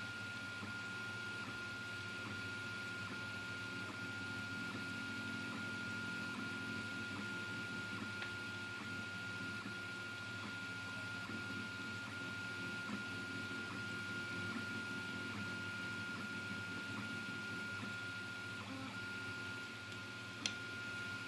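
Anet A8 3D printer running a print: a steady high whine with a faint tick recurring a little more often than once a second, over a low hum. One sharp click near the end.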